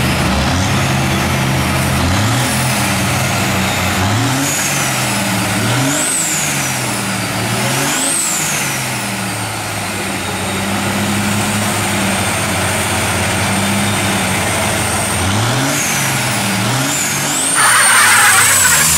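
Diesel truck engine revving again and again, each rev rising and falling in pitch, with a high whistle that climbs and falls along with it. Near the end a louder burst of hiss comes in.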